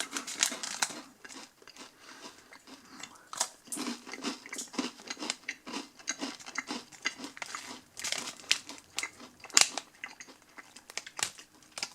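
Someone biting and chewing a dry, crunchy oat-and-honey granola bar: many short, crisp crunches at an irregular pace.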